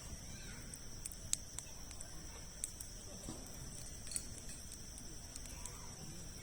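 Campfire of large logs burning, with irregular sharp pops and crackles every second or so over a low, soft roar. A steady high-pitched hum runs underneath.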